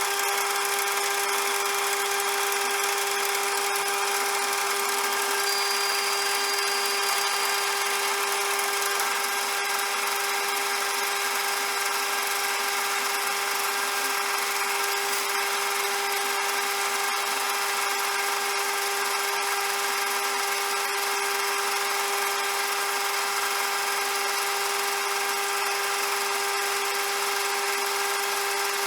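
CJM360 benchtop metal lathe running steadily, its motor and spindle giving a constant even whine over a hiss.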